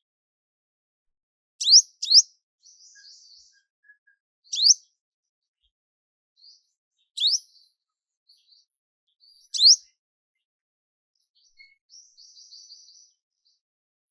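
A bird repeating a short, sharp rising chirp, five times in all, the first two close together, with softer twittering in between and a longer twitter near the end.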